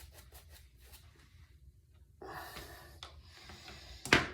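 Synthetic shaving brush working up lather on shave soap, with quick swishing strokes about four or five a second, then a louder stretch of swishing a little after two seconds in. Near the end comes a single sharp knock, the loudest sound.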